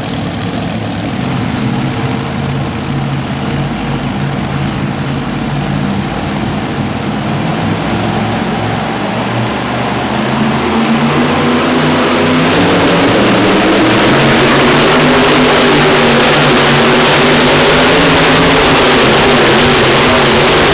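Super modified two-wheel-drive pulling truck engine running. About halfway through it climbs to a very loud full-throttle pitch and holds there.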